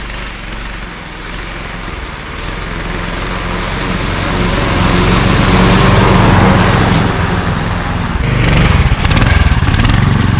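Small snowmobile engine running, growing louder about halfway through and rising again near the end as it revs.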